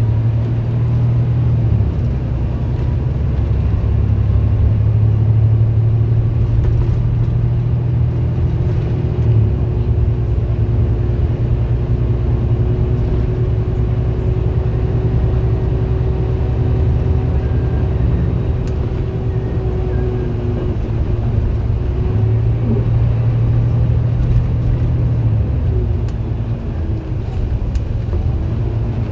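MAN A91 bus engine running under way, a steady low drone, with the radiator cooling fan running loudly from about nine seconds in.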